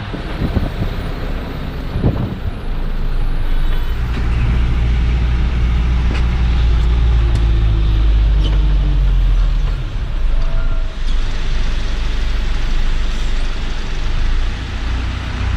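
Heavy goods truck's engine running, its low rumble heaviest from about four to ten seconds in, with a hiss rising over it near the end.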